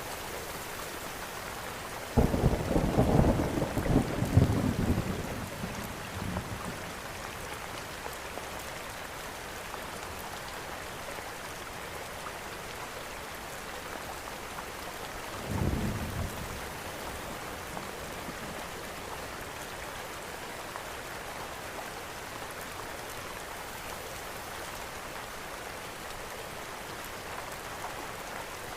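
Steady rain falling, with a loud rumble of thunder about two seconds in that lasts a few seconds, and a shorter, fainter rumble around the middle.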